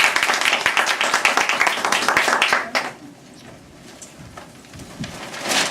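Audience applauding, many hands clapping quickly, dying away about three seconds in; the rest is quieter room noise with a short louder sound near the end.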